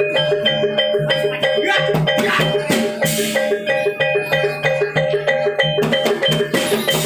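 Javanese gamelan music for a barongan dance: tuned metal percussion struck in a fast, even pattern over drums, with a couple of short cymbal-like crashes partway through.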